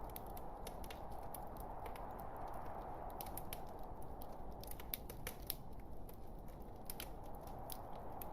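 Log fire crackling in a fireplace: irregular sharp pops and snaps over a steady soft hiss of the burning wood.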